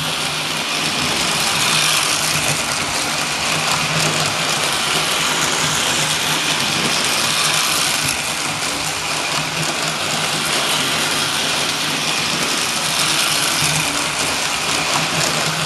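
Lionel 675 O-gauge toy steam locomotive with its tender and passenger cars running on the track: a steady whir of the electric motor and gears with wheel noise on the rails.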